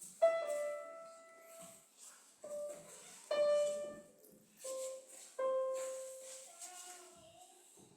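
Single piano-like notes sounded one at a time, each starting sharply and fading. They mostly come in pairs at the same pitch, as in a call-and-echo pitch-matching exercise, and step down in pitch. A slightly wavering held note comes near the end.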